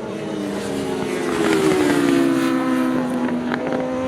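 Large-capacity racing motorcycles at full speed, their engine notes sliding slowly down in pitch as they pass, loudest about two seconds in.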